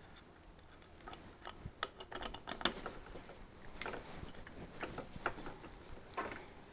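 Irregular light metallic clicks and taps of a trailer jockey wheel's axle pin and fittings being handled during reassembly.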